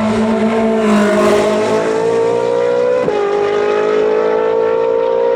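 Ferrari race car engine accelerating hard, its pitch climbing steadily, dropping sharply at an upshift about three seconds in, then climbing again in the next gear.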